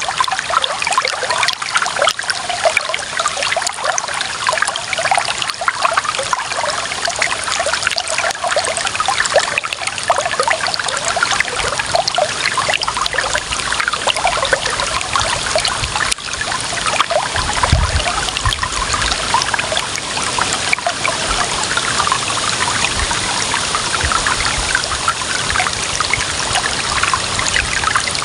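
Clear running water trickling steadily, with many small splashes and bubbles.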